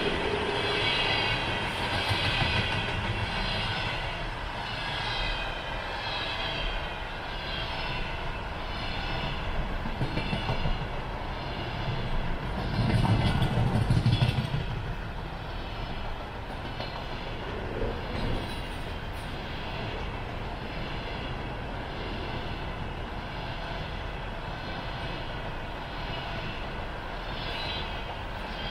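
Container freight train rolling past, its wheels clacking over the rail joints about once a second, with a louder low rumble swelling about halfway through.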